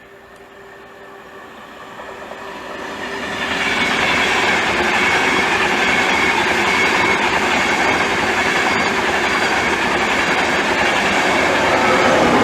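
InterCity 225 train (Class 91 electric locomotive with its coaches) running through the station. Wheel and rail noise builds over the first four seconds, then holds at a loud, steady rush as the train passes.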